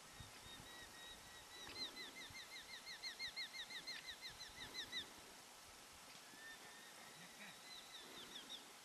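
A songbird singing: a run of short, repeated down-slurred notes, about five a second, swelling over a few seconds, then a second, shorter run near the end.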